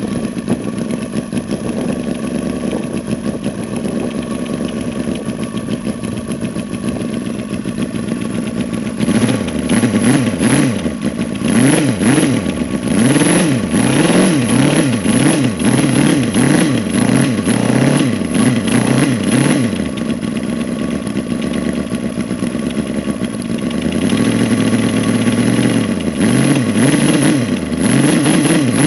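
An engine idling steadily, then revved up and down in quick repeated throttle blips from about nine seconds in. It settles briefly, then revs again in the last few seconds.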